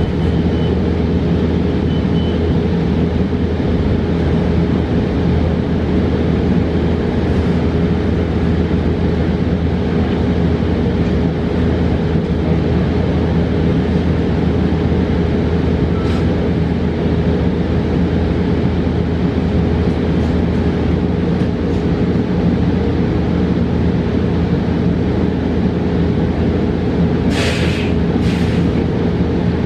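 Cabin noise of a 2022 New Flyer XE40 battery-electric bus in motion: a steady rumble with a constant hum. Near the end come two short bursts of hiss.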